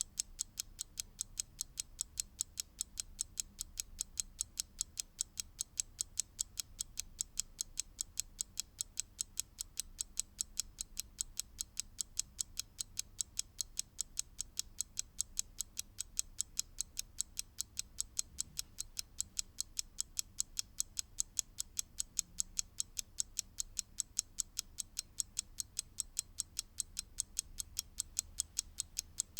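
Mechanical clock ticking: crisp, high clicks at a quick, perfectly even pace of several ticks a second.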